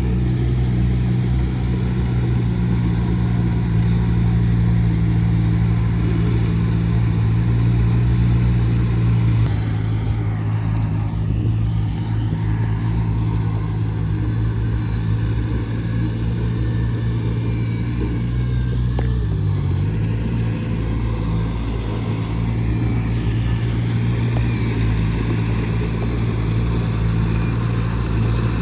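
Diesel engine of heavy earthmoving machinery running steadily at a low pitch, dipping briefly in pitch about two-thirds of the way through.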